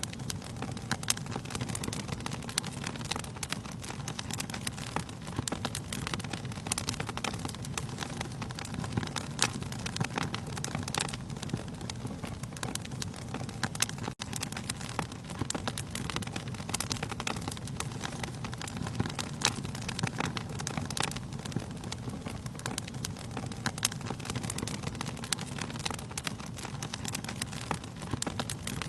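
Wood fire crackling in a fireplace, with frequent irregular sharp pops and snaps over a steady low rush of burning. There is a split-second gap about halfway through.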